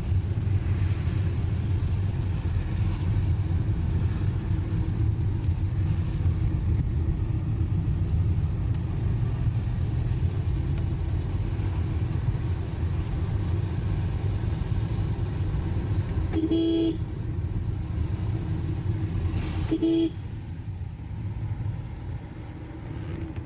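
A car driving, heard from inside the cabin, with a steady engine and road rumble. Two short car horn toots come about three seconds apart, late in the stretch, and the rumble eases a little after the second.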